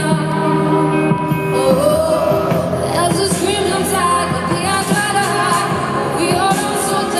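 Live pop concert music with a singer's voice over sustained instruments, recorded from the audience.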